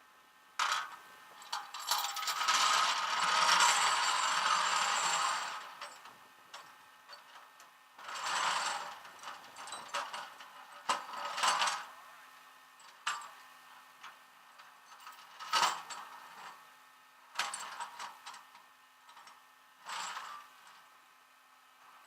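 Irregular metallic clinks, knocks and rattles, with a longer scraping rush about two seconds in that lasts some three seconds, over a faint steady hum.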